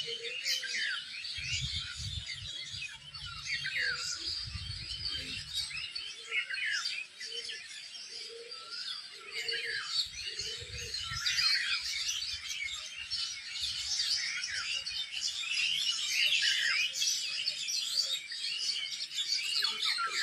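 A morning chorus of many small birds chirping and twittering, their quick overlapping calls continuous throughout. Some lower calls come in the first half, with a low rumble for a few seconds near the start.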